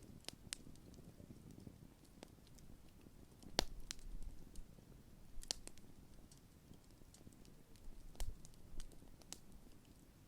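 Wood campfire crackling: scattered sharp pops and snaps from the burning logs, the loudest about three and a half seconds in, over a soft low rustle of the flames.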